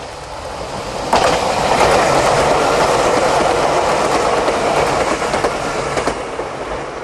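Meitetsu 7000 series Panorama Car electric train passing: its noise swells sharply about a second in and holds, with wheels clicking over the rail joints, then eases off near the end.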